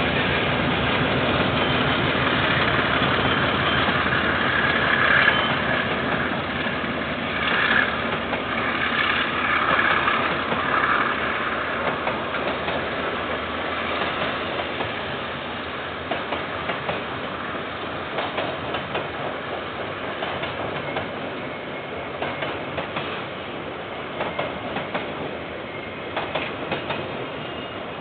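KiwiRail diesel freight train passing: the locomotives' engines run loudly at first and fade, then a long line of container wagons rolls by, wheels clicking steadily over the rail joints. Heard through a security camera microphone, with the top end cut off.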